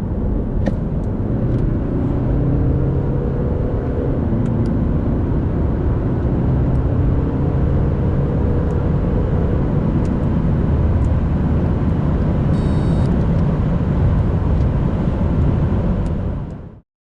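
BMW 520d's 2.0-litre four-cylinder turbo diesel pulling under full throttle from about 100 to 150 km/h. Its pitch rises twice as the 8-speed automatic climbs through the gears.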